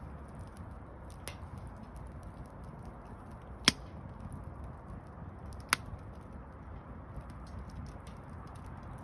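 Campfire of burning wood with a steady low hiss and faint crackling, and two sharp pops from the wood about two seconds apart near the middle.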